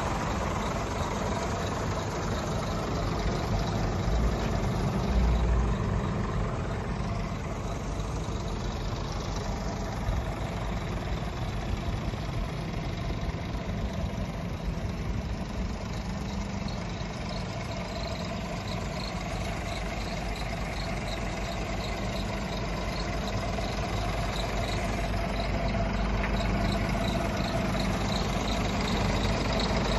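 Scania R450 truck's 13-litre six-cylinder diesel engine idling steadily. A faint, regular ticking joins in about halfway through.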